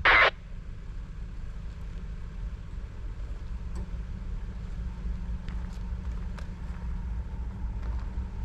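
Heavy diesel engines running steadily with a low, even rumble, typical of freight locomotives working nearby. A brief loud burst of noise comes right at the start.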